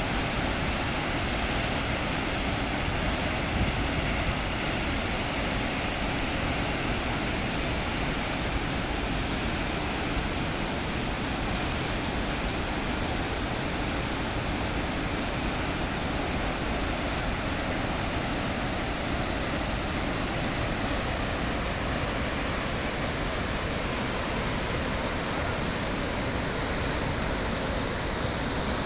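Waterfall on the Pamba river: a steady, loud rush of falling water.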